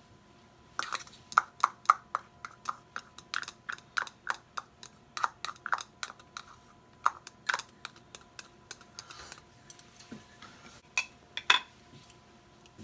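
Kitchen knife chopping on a cutting board, a steady run of quick knocks at about three a second that slows and thins out near the end.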